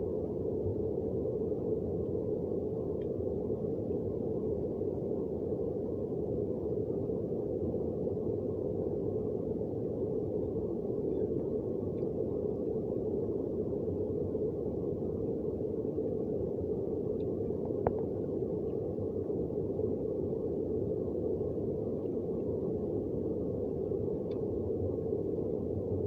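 Heavy rain falling steadily, heard as an even, low rushing noise with no breaks.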